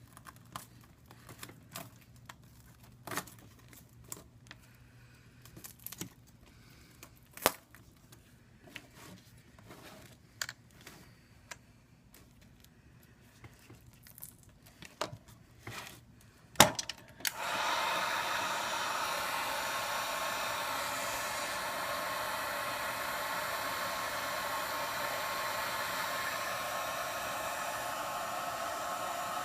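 Scattered light clicks and taps of tools working at the iPad 2's glued glass. About seventeen seconds in, a hot-air gun switches on and blows steadily to soften the adhesive.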